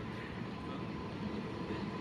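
Steady low rumble of a train approaching through the station, with a faint steady whine.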